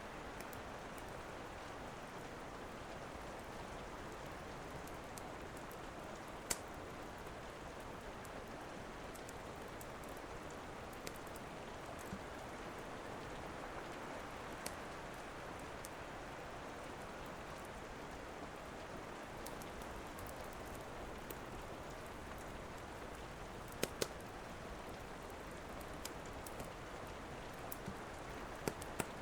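Steady rain hiss with a crackling wood fire: occasional sharp, isolated pops, two of them in quick succession about two-thirds of the way through.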